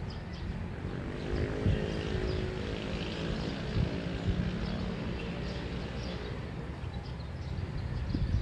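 A distant engine drones steadily, swelling in about a second in and fading away a few seconds later, with birds chirping.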